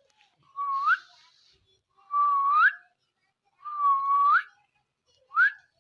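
Ringneck parakeet whistling: four whistles, each held on one note and then rising sharply at the end, the last one short.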